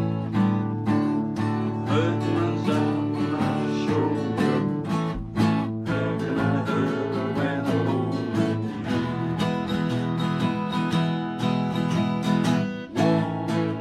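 Acoustic guitar being strummed continuously, playing chords with a steady rhythm.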